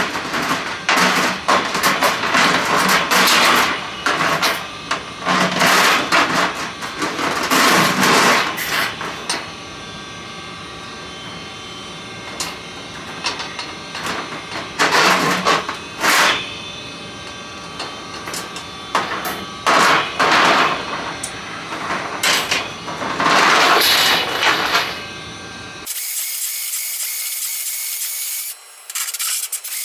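Motorized drain-cleaning cable machine running, its cable rattling and clattering in irregular loud bursts over a steady machine hum while it works through a main sewer line. Near the end the sound cuts off abruptly to a thin steady hiss.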